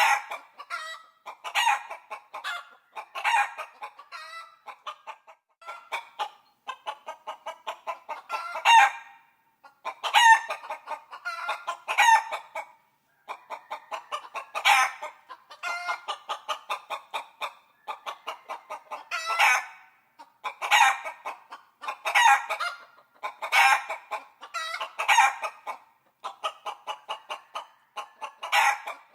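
Chickens clucking in quick runs, broken by louder, drawn-out cackling calls every second or two. The sound is thin, with no low end.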